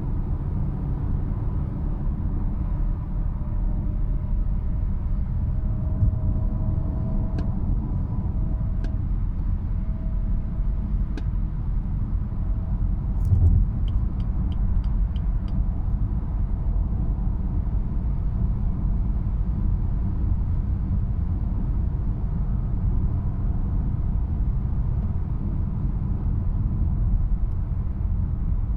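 Steady road and engine noise inside the cabin of a 2018 BMW 320i at about 105–110 km/h, with a faint whine under load that edges up in pitch and comes and goes in the first half. The owner suspects the transmission. A click about halfway marks lifting off the gas, and a short run of about six quick ticks follows.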